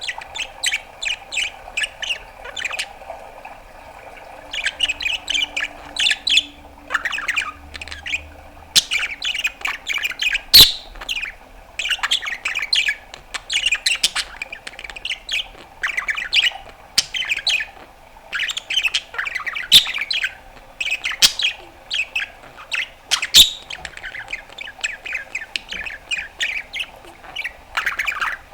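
Pet budgerigar warbling: fast runs of chirps, clicks and scratchy squawk notes in bursts of a second or two, with a few sharp louder clicks. A faint steady hum runs underneath.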